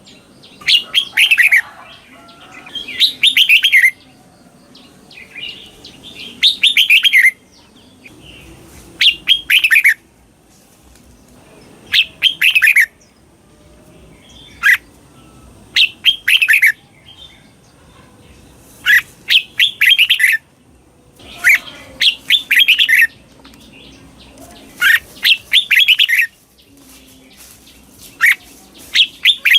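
Red-whiskered bulbul singing the doubled phrases that Thai keepers call 'bern': about eleven loud, clear phrases of quick falling whistled notes, each about a second long, repeated every two to three seconds.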